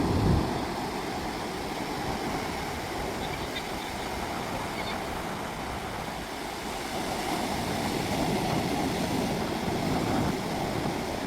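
Ocean waves breaking and washing in a steady rush that swells a little near the end.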